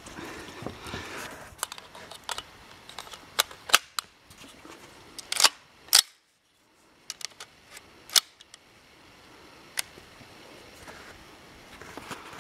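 A series of irregular sharp clicks and knocks from handling: several loud ones near the middle, then fewer and fainter. There is a short dead silence a little after six seconds in.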